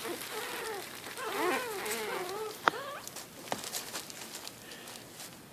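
Month-old Yorkshire terrier puppies whimpering and squeaking in thin, wavering cries, several at once in the first couple of seconds. Two sharp clicks follow a little past the middle.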